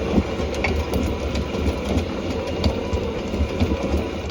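Sailboat's anchor windlass hauling in chain: a steady motor run with a low rumble and scattered clanks of chain links. It starts and stops abruptly.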